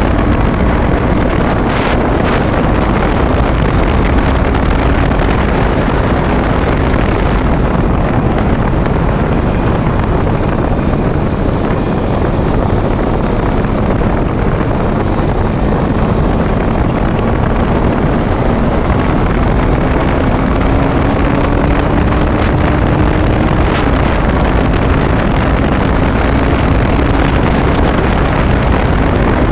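Wind rushing over the microphone of a moving motorcycle, with the engine's faint steady note beneath that rises slowly and drops back about 24 seconds in.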